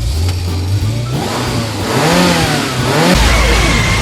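Car engine revving, its pitch rising and falling a couple of times about halfway through over a steady low drone.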